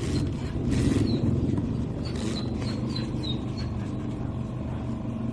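Mini portable washing machine running: a steady low motor rumble that starts and stops abruptly, with a few short, faint high chirps in the middle.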